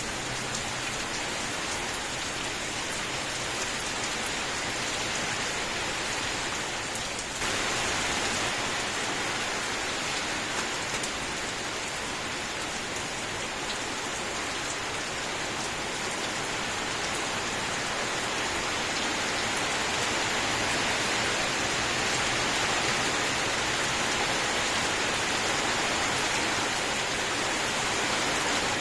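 Steady, continuous rainfall that suddenly becomes louder about seven seconds in.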